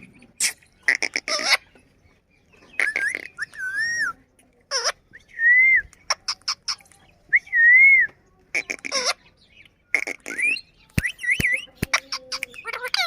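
Ringneck parrot chattering and whistling in short bursts, with several longer wavering whistled notes that rise and then fall.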